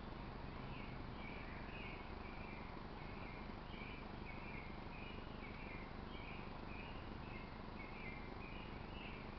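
Short chirps repeated about twice a second from a small bird or chipmunk, over a steady outdoor background hiss.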